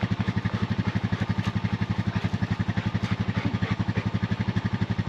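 An engine idling steadily, with an even, rapid low chugging of about fourteen beats a second.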